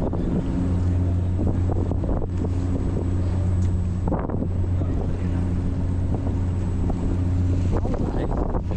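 Ferry engine running with a steady low drone, heard from on deck with wind buffeting the microphone.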